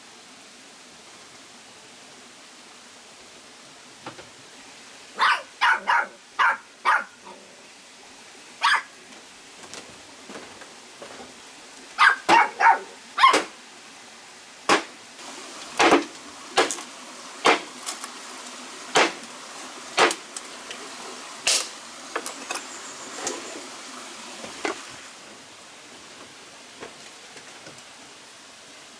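A dog barking in short sharp barks: a quick run of four, another run of four a few seconds later, then single barks about a second apart that stop near the end.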